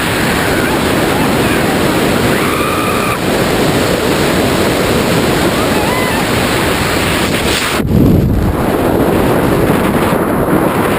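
Wind rushing and buffeting over the camera microphone during a skydive: a loud, steady roar with a brief change about eight seconds in.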